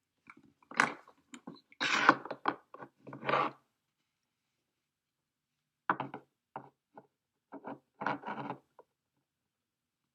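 Handling noises: paper and markers rubbing and knocking on a wooden table, in two short clusters with a pause between.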